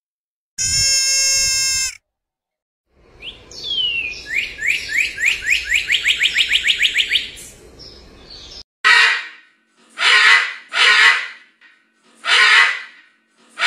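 A deer gives a short bleating call, then a northern cardinal sings a run of clear down-slurred whistles that quicken into a rapid series. After that, macaws give four harsh squawks about a second apart.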